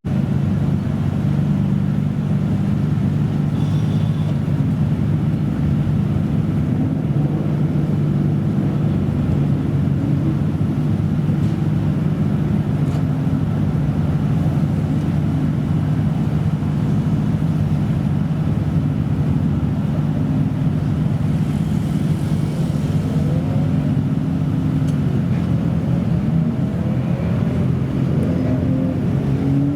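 Modified car engine idling steadily with a low, even note that holds the same pitch throughout, with no revving.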